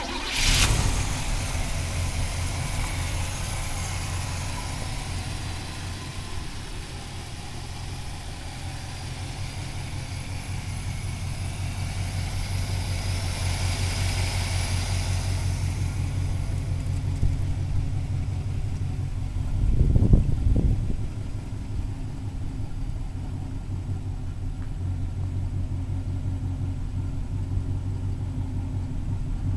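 Chevy 350 V8 fires up and settles into a steady idle. About twenty seconds in it gets a short blip of the throttle.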